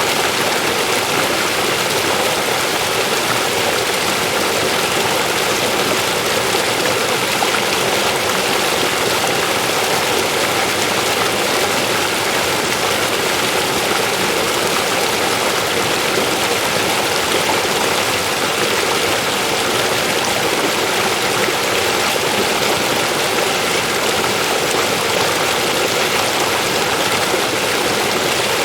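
A river flowing over rocks: a steady, unbroken rushing of water.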